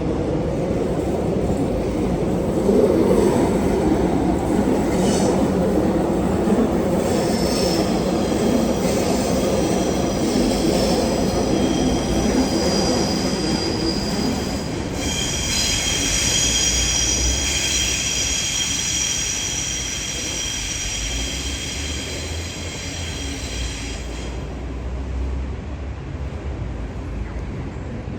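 Steel wheels of a passing rail vehicle squealing on the track. A low rumble comes first, then a high squeal of several steady tones builds from about a quarter of the way in, is loudest in the latter half and stops a few seconds before the end.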